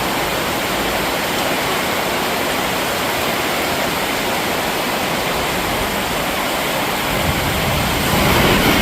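Heavy rain pouring down, a steady dense hiss. About seven seconds in, a low rumble joins it.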